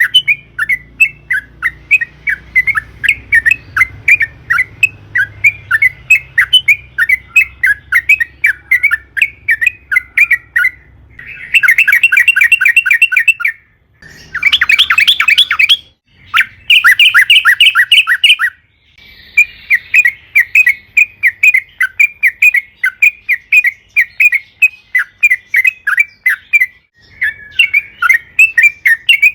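Yellow-vented bulbul (trucukan) calling in a long run of short, bright chattering notes, about three or four a second. In the middle come stretches of much faster, denser chatter, cut off by brief sudden gaps.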